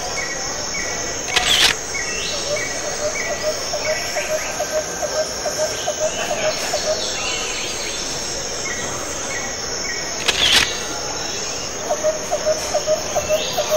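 Insects chirping steadily, with quick runs of pulsed chirps, broken by two short, loud sharp sounds about a second and a half in and again about ten and a half seconds in.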